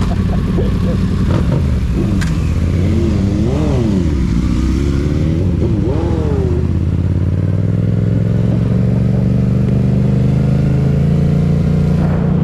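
Motorcycle engine running, its pitch rising and falling a few times a few seconds in, then holding a steady note that slowly climbs.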